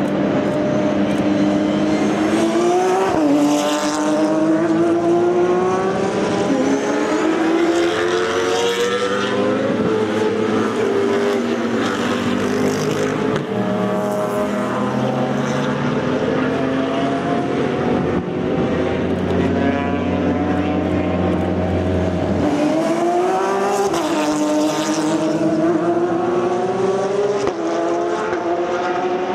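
Racing car engines with open exhausts running at full throttle past the track, the pitch climbing steadily and dropping sharply at gear changes, with more than one car heard at once.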